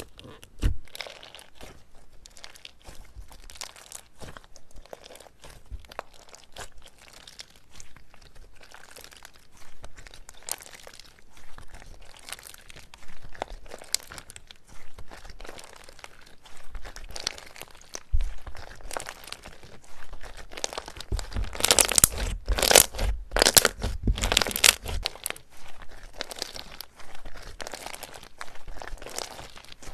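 Slime being squeezed and pressed by hand, giving dense, irregular crackling and crunching. The crackles grow louder for a few seconds about two-thirds of the way through.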